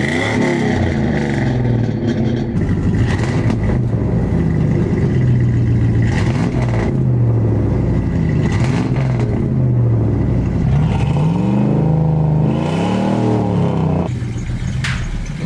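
1999 Dodge Ram's 318 (5.2 L) V8 exhausting through a Flowmaster Super 40 muffler, revving up and falling back several times, with a longer rise and fall near the end before it settles lower.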